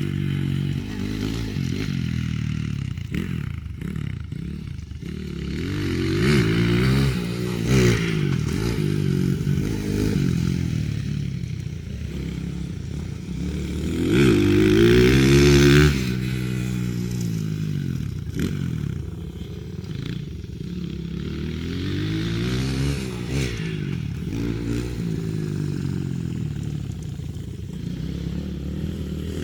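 Pit bike engine revving up and down over and over as the bike is ridden around a track, its pitch climbing and dropping every few seconds, loudest in a hard pull about halfway through.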